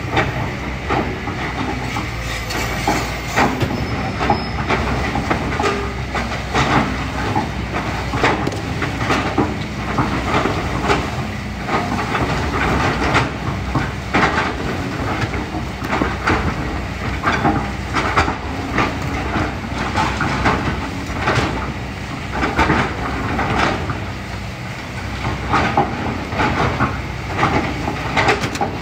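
Kobelco SK200 hydraulic excavator working: its diesel engine drones steadily while the bucket clanks and scrapes irregularly through rocks, gravel and sand.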